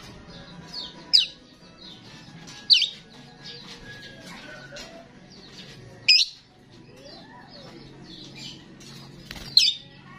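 Starling singing: a steady run of chattering and warbling notes, broken by four loud, sharp whistles that sweep downward, about one, three, six and nine and a half seconds in.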